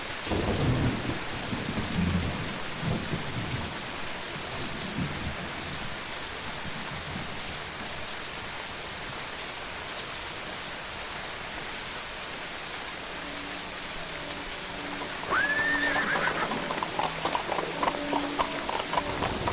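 Steady rain falling, with rumbling thunder in the first few seconds. About fifteen seconds in, a horse whinnies, followed by a run of hoof clops.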